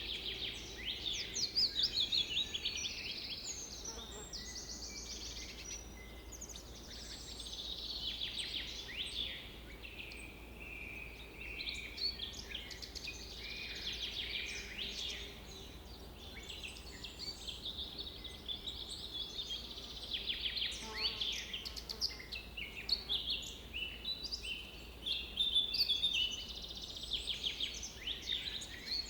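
Several songbirds singing and calling at once, a dense chorus of quick chirps, trills and sweeping notes that goes on throughout.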